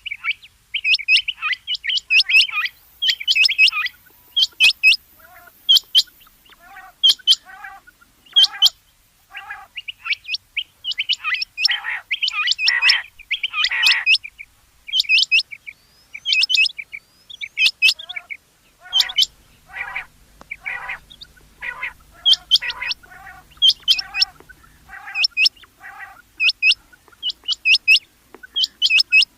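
Rain quail calling: short, sharp, high notes repeated over and over in quick groups, with lower notes mixed in from about a third of the way through.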